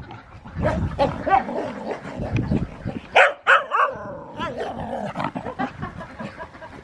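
Cocker spaniels barking at play in short, irregular barks, the loudest a little after three seconds in.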